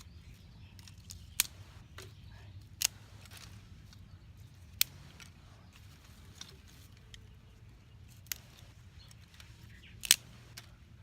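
Dry twigs snapped by hand: about five sharp cracks spread a second or two apart, the loudest near the end, with fainter crackles of twigs being handled between them.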